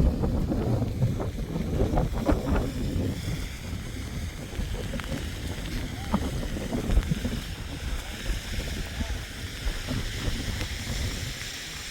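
Wind buffeting the microphone as a heavy, uneven rumble, strongest in the first few seconds, with faint voices under it.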